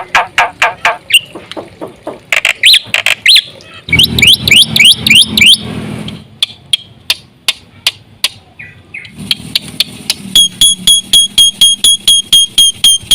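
Black-winged myna (jalak putih) singing loudly: a run of sharp, clicking notes, a burst of rising whistles about four seconds in, and near the end a fast, even series of about four ringing notes a second.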